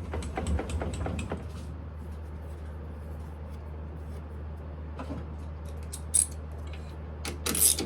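Smithy lathe running with a steady low hum, with light metal clicks in the first second or so, a sharp knock about six seconds in and a few louder knocks near the end.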